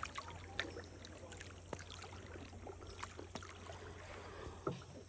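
Paddled canoe on calm water: irregular knocks of a paddle against the hull and light splashes of the strokes, over a faint steady low hum.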